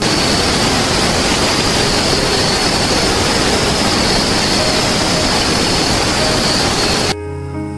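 Loud, steady rushing noise with a bright hiss and no clear pitch, cutting off suddenly about seven seconds in. Soft piano music follows.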